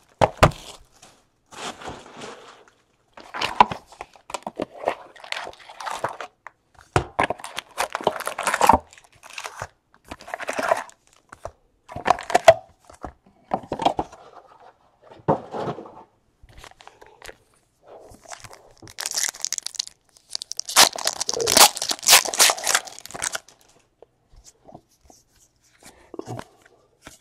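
A box of Donruss basketball card packs being opened: cardboard and pack wrappers torn and crinkled in irregular bursts. The loudest, longest tearing and crinkling comes about twenty seconds in.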